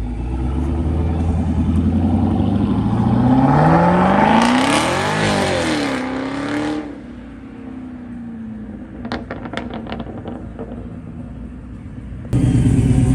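Car engine accelerating hard, its revs climbing for a few seconds and then dropping away as it goes off. About twelve seconds in, another engine's loud, steady running starts abruptly.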